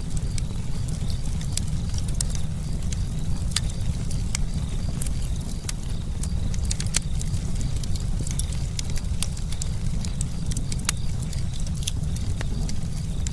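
Campfire burning, with frequent sharp, irregular crackles and pops of burning wood over a steady low rumble.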